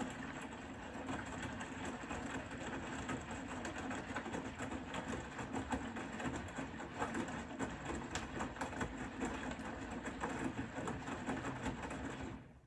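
Bosch Serie 4 front-loading washing machine turning its drum with the wet load: a steady motor hum with sloshing and small knocks for about twelve seconds, stopping suddenly near the end as the drum pauses between tumbles.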